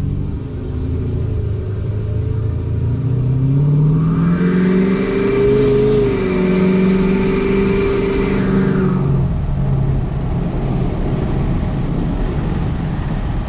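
Ford F250's 6.7-litre Power Stroke turbo-diesel V8 through a 5-inch Flo-Pro straight-pipe exhaust, accelerating. The pitch rises a few seconds in, holds under load, and eases off about nine seconds in. Heard from the cab with the windows down.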